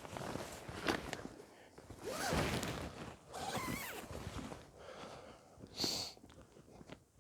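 Irregular rustling and handling noises with a few sharp clicks and knocks.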